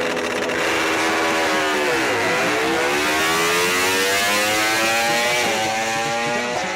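MotoGP race bike's engine: its pitch drops as the bike slows, bottoms out about two seconds in, then climbs steadily as it accelerates hard again, with a gear change near the end.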